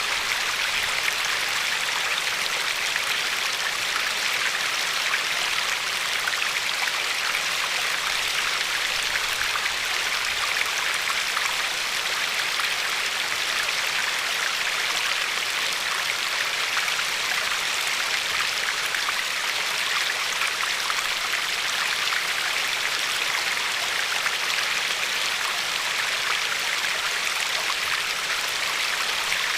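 River water flowing and lapping over a pebble shore: a steady, even rush with fine splashing.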